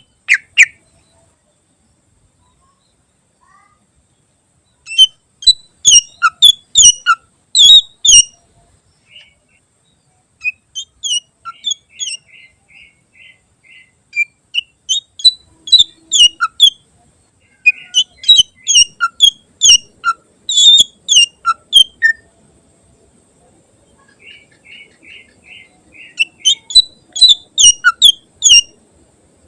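Cucak ijo (green leafbird) singing: three loud bursts of sharp, rapid high notes, the first about five seconds in, with softer runs of evenly repeated notes between them. The song is full of mimicked phrases of other birds.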